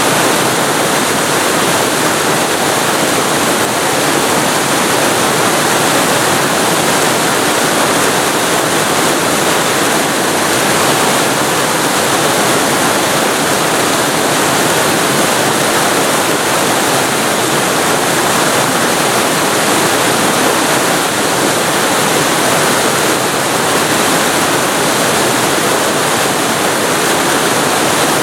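Waterfall recorded very close to the falling water: a loud, steady rush of water with no breaks or changes.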